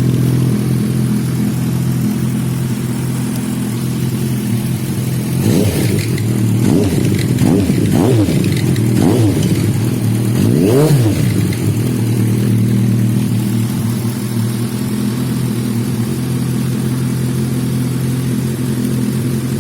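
Suzuki Bandit GSF 1250's inline-four engine idling through its exhaust, given a quick series of throttle blips about halfway through that rise and fall in pitch, then settling back to a steady idle.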